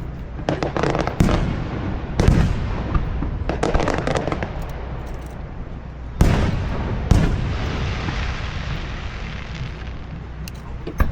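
Aerial fireworks shells bursting: a series of loud booms with long echoing tails, including clusters of rapid crackling pops in the first half, two big booms about six and seven seconds in, and another near the end.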